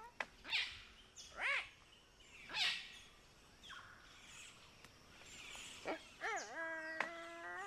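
Palm cockatoo whistled calls: three short, arching whistles in the first three seconds, then a long whistle about six seconds in that dips, holds a steady note and rises at the end. This is the kind of call used to locate the birds in the rainforest.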